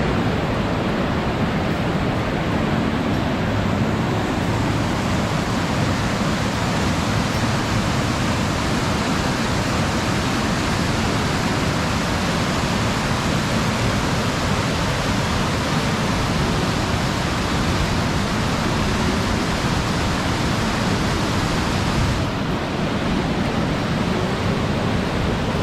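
Waterfall rushing steadily, a constant loud wash of falling water.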